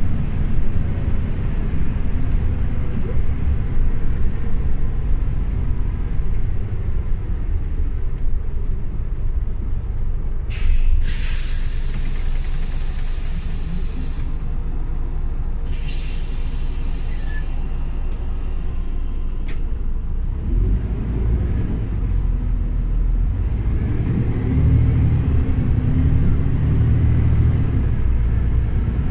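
Scania OmniLink CL94UB city bus heard on board: its engine running with a steady low rumble, broken by two loud hisses of compressed air a little over a third of the way in and again just after halfway, each a few seconds long, from the bus's air brakes or doors. Near the end the engine grows louder as the bus pulls away.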